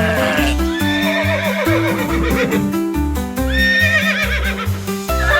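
Background music with a steady bass beat, with a horse whinnying twice over it.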